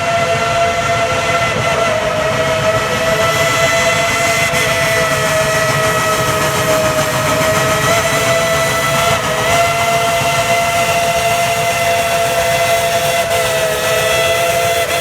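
Steam locomotive whistle sounding one long continuous blast, several notes together over a hiss of steam, its pitch wavering slightly partway through and sagging a little near the end.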